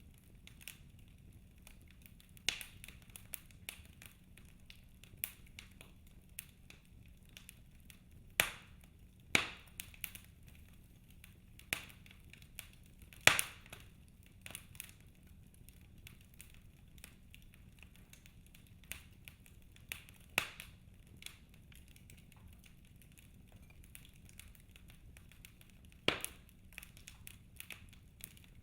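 Wood fire crackling in a fireplace: scattered sharp pops and snaps at irregular intervals over a faint steady background. The loudest pop comes about halfway through.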